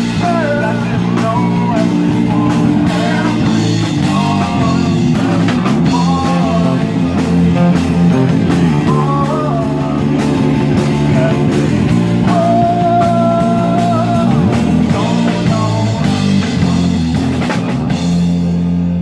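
Rock band playing with guitar, bass and drums, a melody line bending in pitch over the top. Near the end the drums stop and a low chord is left ringing.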